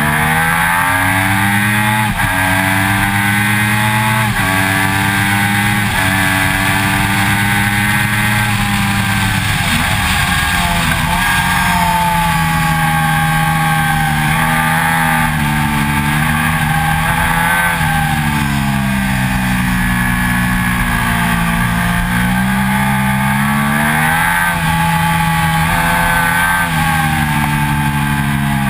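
2006 Triumph Daytona 675's three-cylinder engine at high revs on track. In the first few seconds it pulls hard with several quick upshifts, its pitch dropping at each change, then it falls away and climbs again a few times as the rider eases off and accelerates, under a constant rush of wind and road noise.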